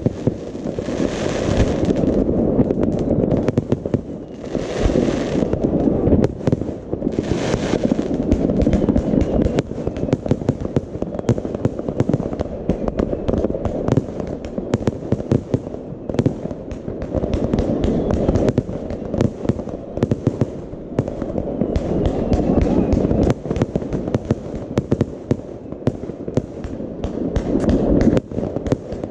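Fireworks going off without a break: a dense stream of bangs and crackles, with three short hissing rushes in the first eight seconds.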